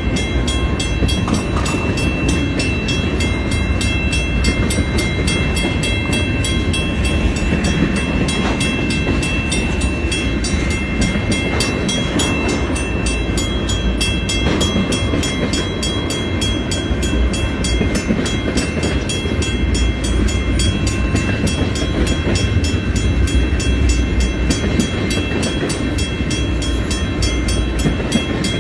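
Train rolling past with a steady, loud rumble of wheels on the rails, and several thin high-pitched tones held over it.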